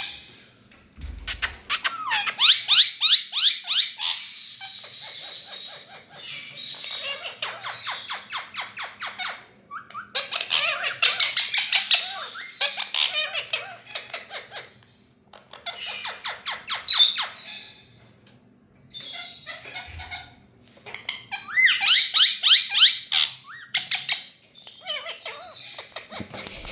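Ringneck parakeet (rose-ringed parakeet) calling in bouts of rapidly repeated high-pitched notes, each bout lasting a second or two, with short pauses between.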